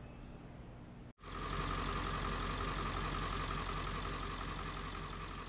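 Ford 7.3 Powerstroke turbo-diesel V8 running steadily at idle, with a steady high whine over the diesel rumble. It starts suddenly about a second in, after a faint hum.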